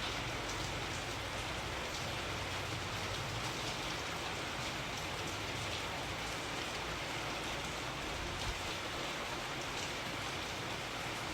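Steady rainfall: an even, continuous hiss of rain with scattered individual drops pattering on a surface.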